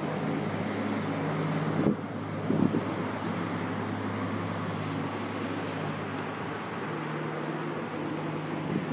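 Steady low engine drone from a large ship's engines, with wind buffeting the microphone about two seconds in.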